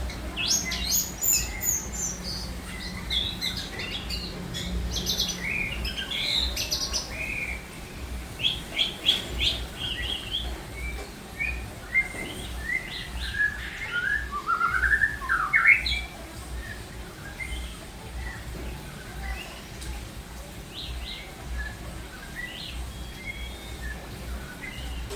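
A bird chirping and calling excitedly in quick bursts, with a run of loud rising calls about fifteen seconds in, then sparser chirps. Strong wind rumbles on the microphone underneath.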